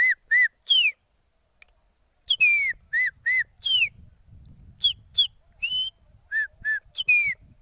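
A man whistling an imitation of the black drongo's (karkanchi's) dawn call: short, clear whistled notes, mostly quick downward slurs and short hooked notes. Three notes come at the start, then after a short pause a longer run of notes in small groups.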